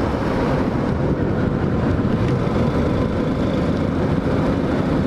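Hawk 250 motorcycle's single-cylinder four-stroke engine running steadily.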